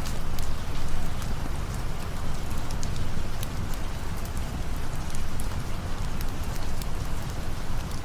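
Steady rain falling, with a heavy low rumble and scattered sharp ticks and crackles. It is a rain-and-campfire ambience bed.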